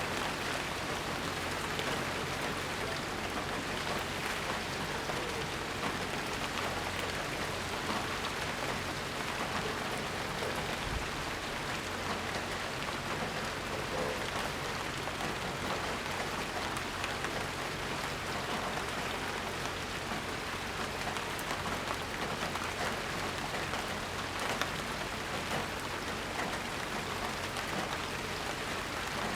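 Steady rainstorm: continuous rain falling and pattering on surfaces, an even hiss of many drops with no thunder.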